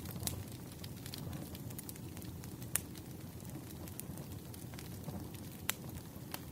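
Campfire burning: a steady low rumble of flames with scattered sharp crackling pops, the loudest about three seconds in and just before six seconds.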